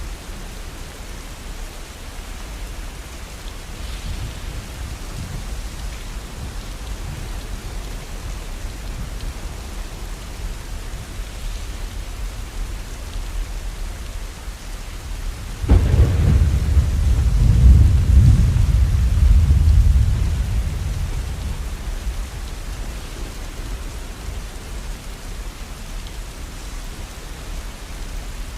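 Steady rain falling, with a thunderclap about halfway through: a sudden crack that rolls into a deep rumble for several seconds before fading back under the rain.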